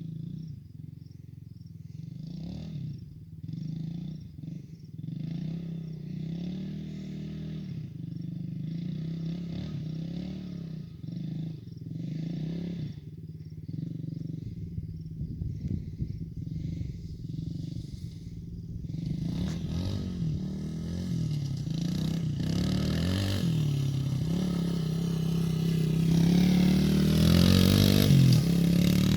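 Yamaha TT-R110 pit bike's small single-cylinder four-stroke engine revving up and down over and over as it is ridden, getting louder through the second half and loudest near the end.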